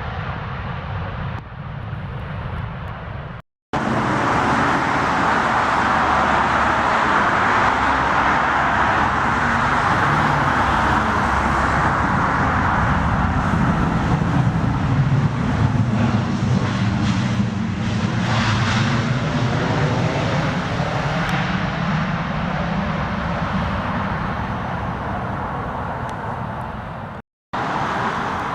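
A jet aircraft passing close by: a loud, steady engine rush that shifts in tone as it goes past and then slowly fades. It comes in and cuts off abruptly, after a few seconds of quieter engine noise.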